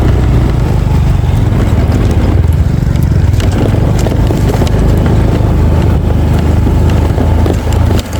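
A small engine running steadily, with a short dip in level near the end.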